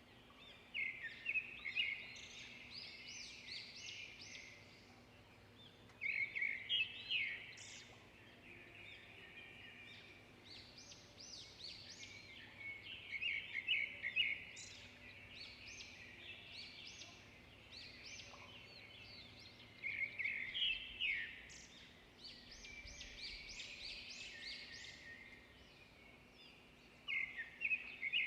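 Songbirds singing: phrases of quick, high, chirping notes come in bursts every several seconds, about five times, over a faint steady background hum.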